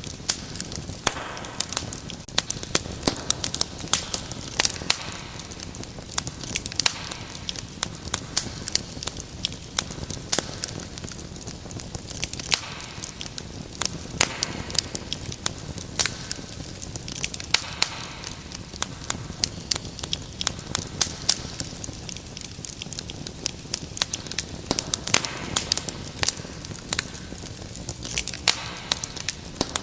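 Wood fire crackling: many irregular sharp pops and snaps over a steady low hiss, with brief hissing flare-ups now and then.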